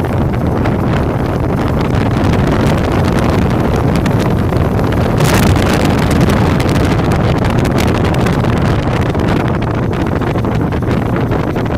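Wind buffeting the microphone: a loud, steady rumble with crackle, and a brief brighter gust about five seconds in.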